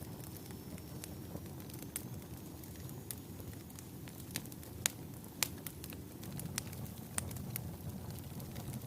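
Wood fire burning in a fireplace: a steady low rumble of flames with irregular sharp crackles and pops, the two loudest about halfway through.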